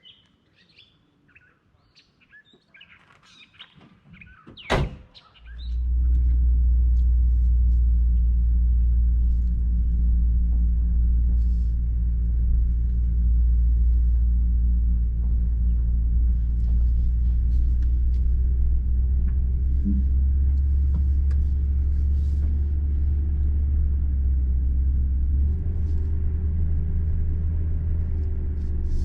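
Birds chirping faintly, then a single sharp knock about five seconds in, after which a car engine comes on and runs with a loud, steady low rumble.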